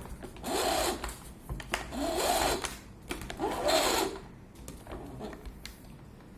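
The retractable cord reel of a Eureka Forbes Trendy Zip vacuum cleaner whirring as the power cord is pulled out in three pulls. Each pull spins the reel up and lets it slow again. A few light clicks follow near the end.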